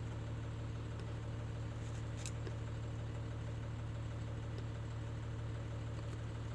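A steady low mechanical hum that holds the same pitch and level throughout, with a faint click about two seconds in.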